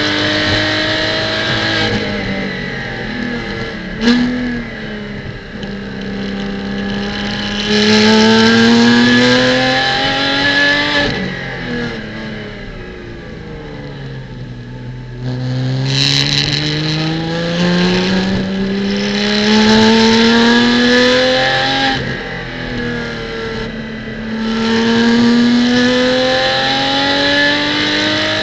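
Porsche Cayman GT4 Clubsport's naturally aspirated flat-six heard onboard, the revs climbing steeply and dropping back at each gear change, then falling away as the car slows and rising again as it pulls out. A short sharp crack comes about four seconds in.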